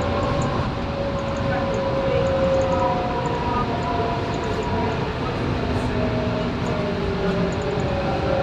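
Scania K230UB single-deck bus with its five-cylinder diesel running under way, heard on board, with several whining tones that slowly slide down and up in pitch as the bus changes speed.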